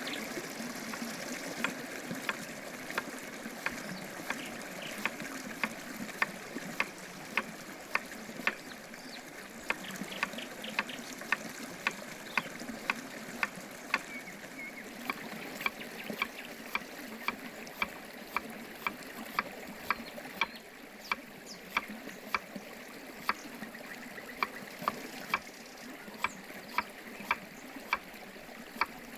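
Sharp taps in an even rhythm, a little under two a second, pausing briefly about two-thirds of the way through, over a steady rush like running water.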